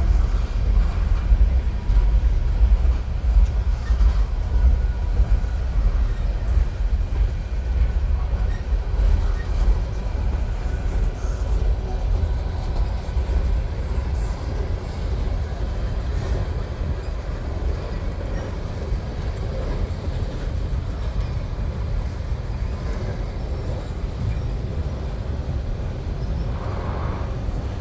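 Freight train rolling past at slow speed, a steady low rumble that gradually eases over the first half, then holds.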